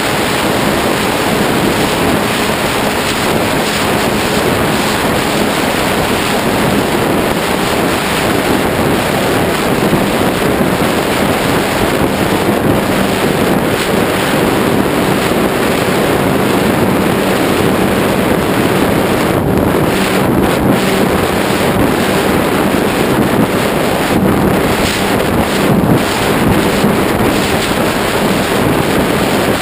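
Wind rushing hard over the microphone of a camera mounted on a flying RC flying wing, with a steady hum from its electric motor and pusher propeller underneath.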